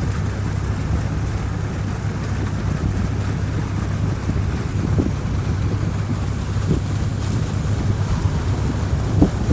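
Mini excavator's diesel engine running steadily, with a steady rushing noise over it and a few dull knocks, the last and loudest near the end.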